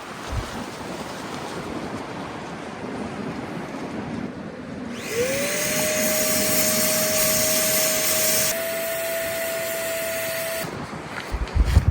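A small electric blower motor switches on about five seconds in. Its whine rises as it spins up, then holds steady over a rush of air, steps slightly higher near the end and cuts off suddenly.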